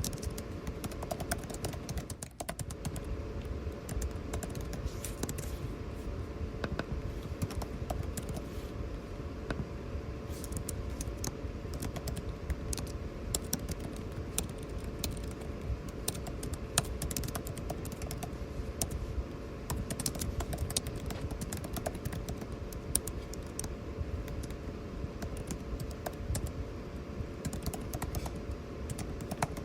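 Computer keyboard typing, quick irregular key clicks, over a steady air-conditioning hum with a faint constant tone.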